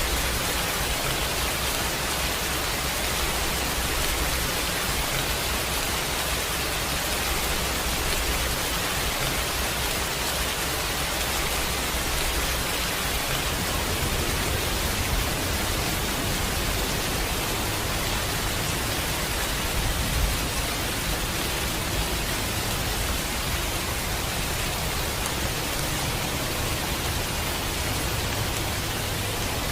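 Steady heavy rain, a dense even hiss, with a low rumble underneath that shifts about halfway through.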